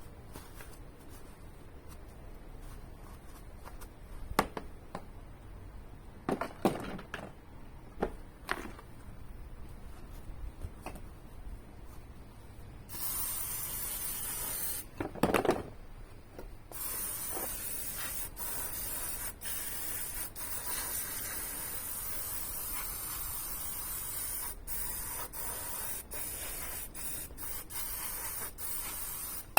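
A few knocks and clicks, then an aerosol spray can hissing: a short spray about halfway through, then long, near-continuous spraying with brief breaks to the end.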